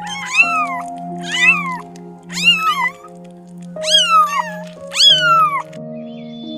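An animal calling five times, each call about half a second to a second long and rising then falling in pitch, over soft background music with held notes.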